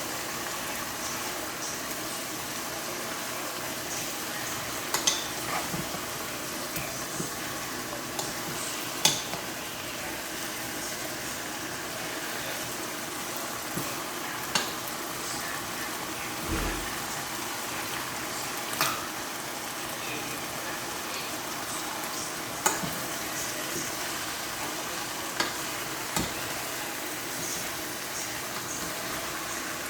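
Chicken and potatoes for adobo sizzling steadily in a pan, with a few sharp clinks of a utensil stirring against the pan.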